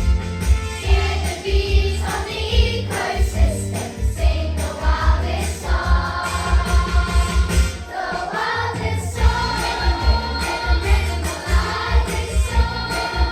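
Young children's choir singing together over music with a steady, heavy bass beat.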